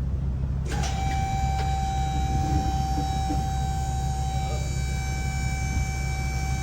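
Steady low rumble of a running car engine. About a second in, a set of steady high tones cuts in and holds over it.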